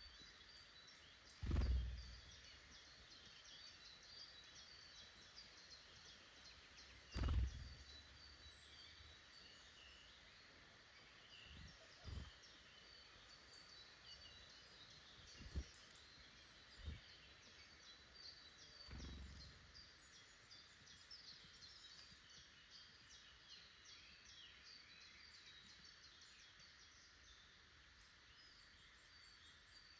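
Faint woodland bird chorus: many small birds calling and singing in short high chirps throughout. Several dull low thumps break in, the loudest about a second and a half in and about seven seconds in.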